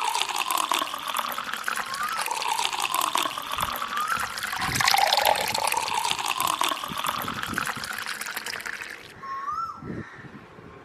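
Water pouring and splashing steadily, stopping about nine seconds in, with short rising chirps repeating over it.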